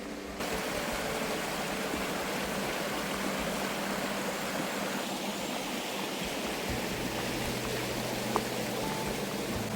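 Water from a natural spring running steadily; it starts abruptly just after the beginning. A single sharp tick comes about eight seconds in.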